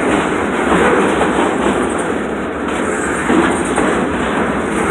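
Freight train cars (boxcars and a covered hopper) rolling past at close range: a steady, loud rolling noise of steel wheels on rail.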